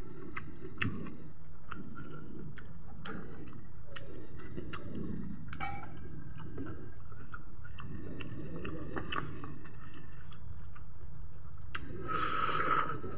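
Close-up eating sounds of a person chewing rice and chicken by hand: wet mouth smacks and small lip and tongue clicks throughout. About twelve seconds in comes a louder hissing sound as he grimaces at the king chilli's heat.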